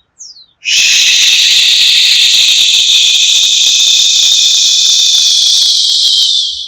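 The Taoist liver healing sound: a long, steady, breathy 'shhh' exhaled through the teeth. It starts about a second in, runs for about five and a half seconds and fades out at the end. It is the purging exhalation of the liver sound in qigong.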